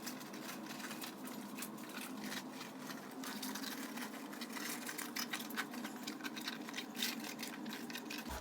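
Rubber inner tube being pushed and worked into a dirt bike tire: a run of quick, irregular rubbing, scuffing and light knocking of rubber on rubber, over a steady low hum.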